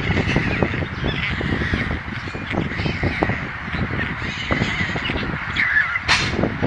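Birds calling: a series of short calls, with one loud, harsh call about six seconds in.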